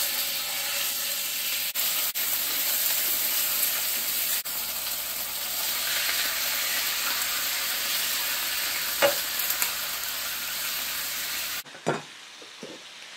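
Bite-sized soy-marinated chicken pieces sizzling in hot olive oil in an electric skillet, just added to the pan, with a spatula stirring them and a few light clicks against the pan. The sizzle drops off abruptly near the end.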